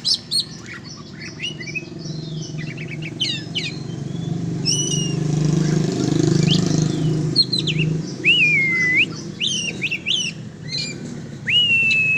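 Oriental magpie-robin (kacer) singing a varied run of chirps, whistles and sweeping notes, ending on a long held whistle. Beneath it a motor vehicle's engine hum swells and fades around the middle.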